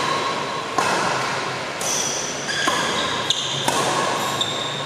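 Badminton rally in an indoor hall: a few sharp racket-on-shuttlecock hits and short high squeaks of shoes on the court, over a steady loud hiss.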